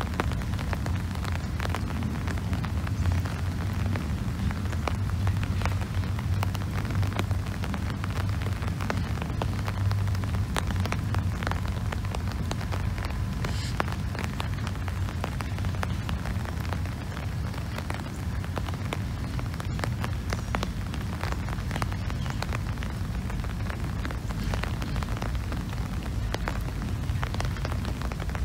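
Norfolk Southern freight train rolling past: a steady low rumble with dense crackling and clicking from the wheels on the rails.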